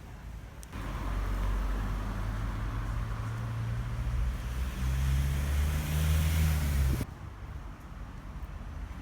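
A motor vehicle running, its low engine or motor note rising slightly in pitch and growing louder; it starts abruptly just under a second in and cuts off sharply about seven seconds in.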